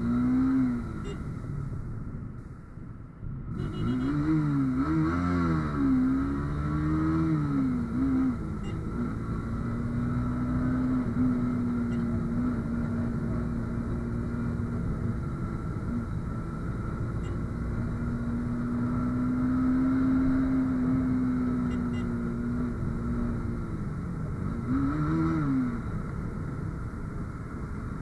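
Motorcycle engine under way, rising and falling in pitch with throttle and gear changes for several seconds, then running at a steady cruising speed for a long stretch before revving up and down again near the end.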